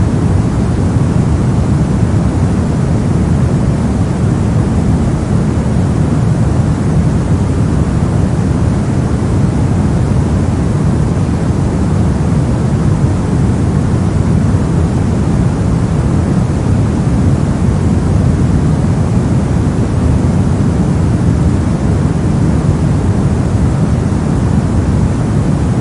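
Brown noise: a steady, deep rumbling hiss, random noise weighted heavily toward the low end, unchanging throughout.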